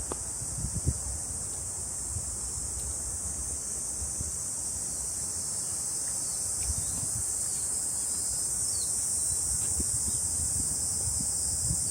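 Steady high-pitched chorus of summer insects, slowly growing louder, with soft footsteps on the trail underneath.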